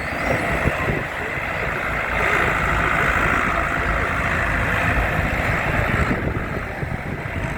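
Tractor engine running steadily, with wind buffeting the microphone; a louder rushing layer comes in about two seconds in and drops away about six seconds in.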